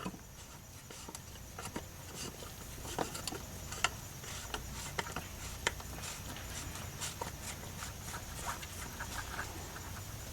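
Scattered, irregular light clicks and taps of parts and tools being handled during an oil change, with a few sharper knocks in the middle, over a faint low background hum.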